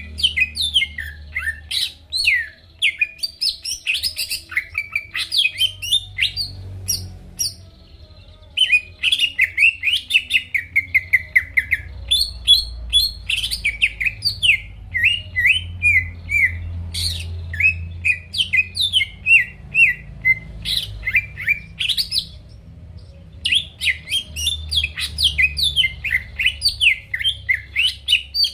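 Green leafbird (cucak ijo) in full, continuous song: a rapid string of chirps, sliding whistled notes and harsher squawky phrases, pausing briefly twice.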